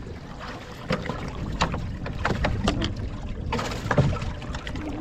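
Wind buffeting the microphone on an open boat, with a series of sharp knocks and clatters from handling in the boat. The strongest knock comes about four seconds in, just after a brief hiss.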